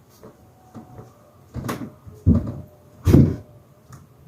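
A door being closed: a few knocks and thumps, the loudest a little past three seconds in.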